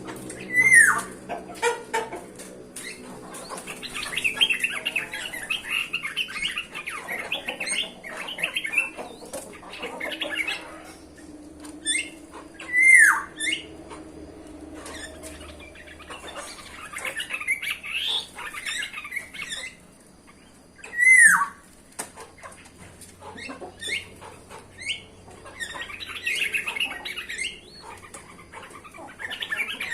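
Bulbuls calling: a loud, slurred call that drops steeply in pitch comes four times, between stretches of busy, jumbled chattering and thin high notes.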